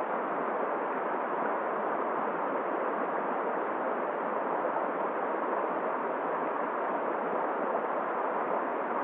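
Steady rushing noise of flowing river water and wind in a snowstorm, even and unbroken.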